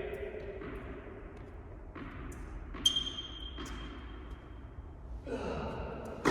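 A single sharp knock of a tennis ball strike about three seconds in, followed by a high ringing tone lasting about two seconds, over the steady background noise of an indoor tennis hall.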